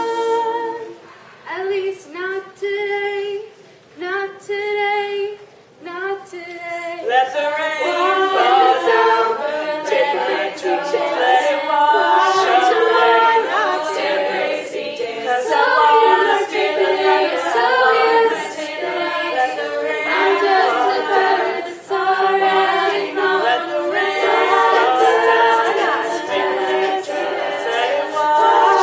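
Women's a cappella group singing a pop mash-up. The first seven seconds are short sung chords broken by pauses; then the full group sings continuously in layered harmony, with crisp vocal-percussion clicks keeping a beat.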